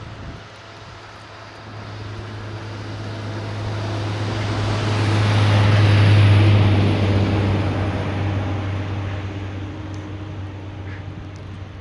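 Snowplow truck driving past: its engine hum and road noise build up, peak about halfway through, then fade away.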